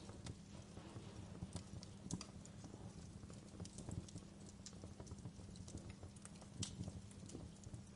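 Fireplace crackling: irregular sharp pops and snaps over a low steady rumble.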